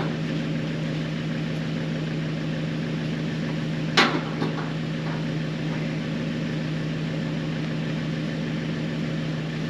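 An engine running at a steady idle, with one sharp metallic clank about four seconds in.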